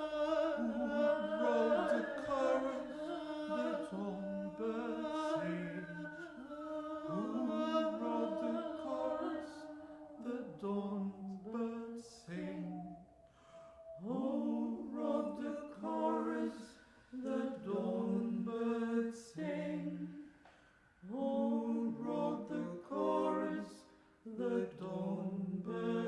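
An a cappella choir improvising, several voices together with no instruments. The first stretch is sustained, overlapping notes with sliding pitches; from about ten seconds in, the voices switch to short chords that start and stop in a rhythm, with brief gaps between phrases.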